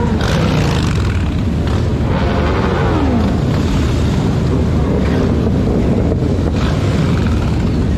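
Motorcycle engines revving and passing, their pitch rising and falling in arcs over a steady rumble, with wind noise on the microphone.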